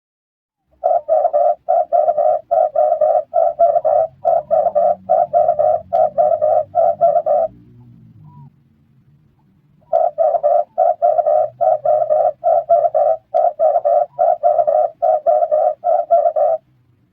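Red collared dove cooing: two long runs of rapid, evenly repeated coos, about three a second, with a pause of a couple of seconds between them.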